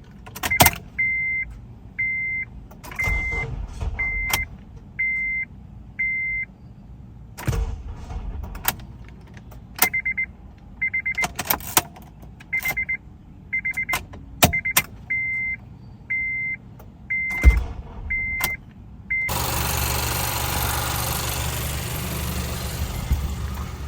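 2006 Acura TSX being started with a failing starter motor: the dash warning chime beeps over and over while sharp clicks come with each try to start it. About 19 seconds in, a loud steady engine sound sets in, with the 2.4-litre K-series four-cylinder turning over and running.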